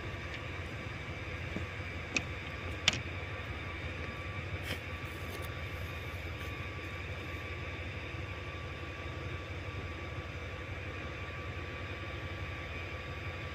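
Railway station ambience: a steady low hum with faint steady high whines, broken by two sharp clicks about two and three seconds in.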